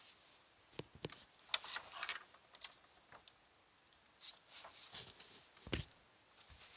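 A pen drawing on paper: irregular short scratchy strokes, with a few light clicks and knocks from handling the pen and paper, the sharpest a little before the end.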